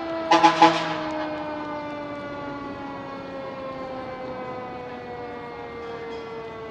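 Fire truck siren winding down, its tone sliding slowly and steadily lower in pitch. Three short, loud horn blasts come less than a second in.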